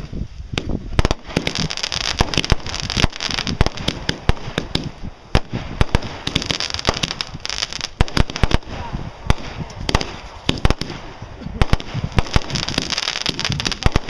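Consumer fireworks going off in rapid succession: a dense string of sharp reports and pops, with patches of fizzing crackle that swell and fade several times.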